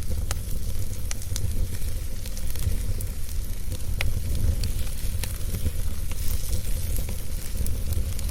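Wood fire burning: a steady low rumble and hiss with scattered sharp crackles and pops at uneven intervals.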